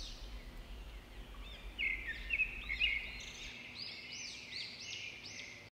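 Songbirds singing: a run of quick, high chirping notes that grows busier from about two seconds in, over a faint low outdoor hum.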